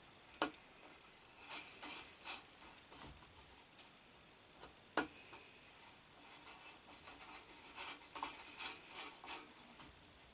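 Light handling noises of small hardware: scattered clicks, taps and short scrapes as screws and nuts are worked while fitting a bench grinder's base cover and feet. Two sharper clicks stand out, about half a second in and about five seconds in.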